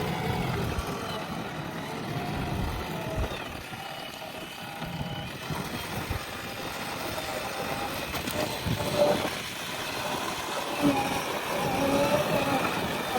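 JCB backhoe loader's diesel engine running under working load, its pitch shifting as the hydraulics work the bucket.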